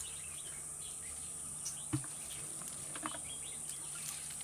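Outdoor hillside ambience: a steady high insect drone with scattered short bird chirps, and a single soft knock about two seconds in.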